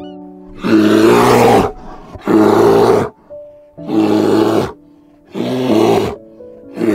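A large mammal calling five times in a row, each call a loud rasping cry about a second long, at a steady pace of about one every second and a half, over soft background music.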